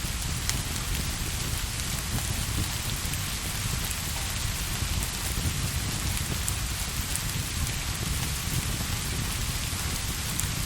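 Steady rain falling, an even hiss with a low rumble underneath and scattered small sharp ticks.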